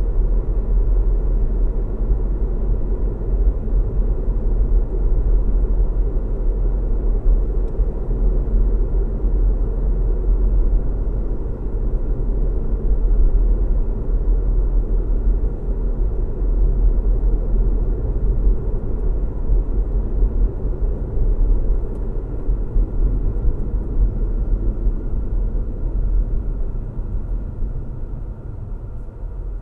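A car driving steadily, a low even rumble of road noise and engine hum, fading down over the last few seconds.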